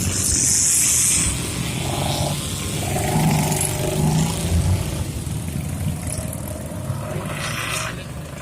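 Car engines running in passing street traffic, with a loud hiss in the first second or so.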